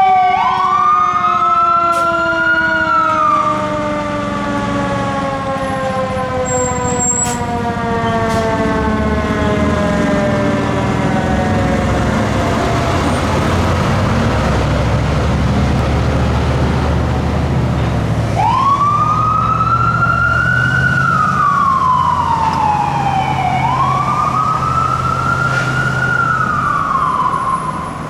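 Fire engine on an emergency response with an electronic wail siren sweeping up and falling back. Under it, a second siren winds slowly down in pitch over about ten seconds. The truck's diesel engine rumbles on its own for a stretch in the middle, then the wail starts up again and sweeps up and down twice near the end.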